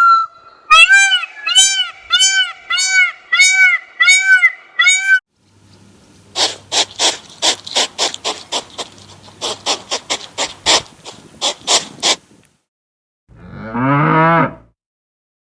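A series of animal calls, one after another. First come about seven high, arched calls in a steady rhythm, then a fast run of sharp, noisy pulses, about three a second, lasting several seconds. Near the end a cow moos once, a single low call that rises and falls.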